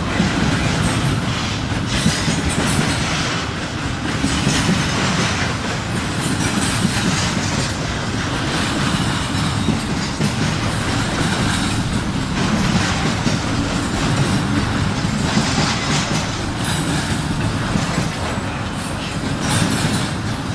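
Freight train cars rolling steadily past close by, wheels clicking over rail joints and switches.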